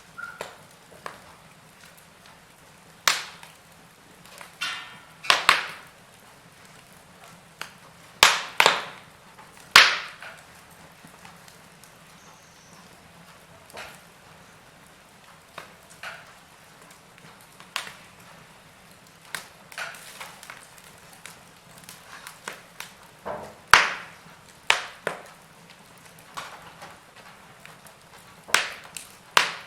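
Wood fire in a fireplace, logs crackling: irregular sharp pops and snaps over a faint steady hiss, with the loudest cracks at scattered moments.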